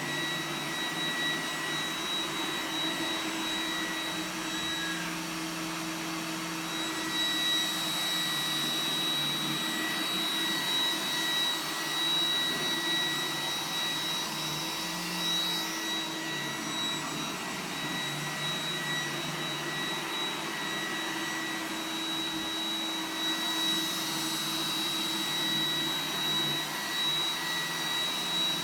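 iRobot Roomba 980 robot vacuum running on carpet in its high-power carpet mode: a steady suction rush with a high, even whine and a lower hum that wavers now and then.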